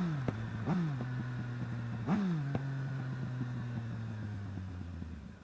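Yamaha FZ-09 inline three-cylinder motorcycle engine revving up sharply three times in the first couple of seconds, each rev falling quickly back, then running steadily. Near the end the engine note drops lower and quieter.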